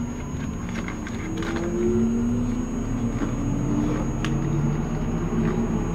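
Electric commuter train running, heard from inside the carriage: the traction motors give a whine that rises slowly in pitch as the train gathers speed, over a steady rumble, with a few light clicks.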